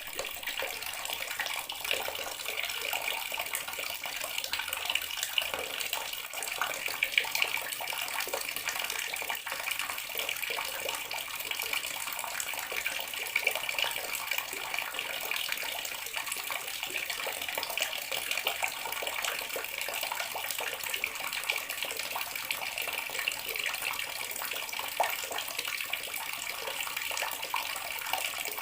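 Bathroom tap running steadily, water splashing into a sink.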